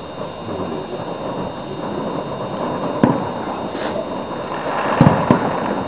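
Fireworks going off at a distance: a sharp bang about three seconds in, a short hiss, then a quick cluster of bangs near the end, over a steady background noise.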